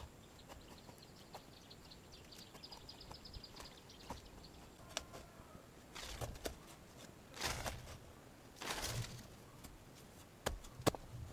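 Hand work outdoors: scattered sharp clicks and knocks, with three short rustling swishes in the second half. A small bird trills faintly in the first few seconds.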